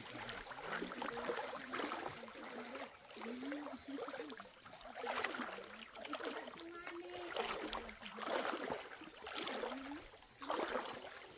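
Shallow river water splashing and swirling around legs and feet wading upstream over rocks, in surges every two to three seconds, over the steady rush of the flowing stream.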